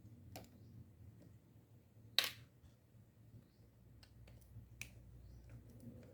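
A few faint clicks and taps of small metal parts and tools being handled while a fishing reel is taken apart, with one sharper click about two seconds in.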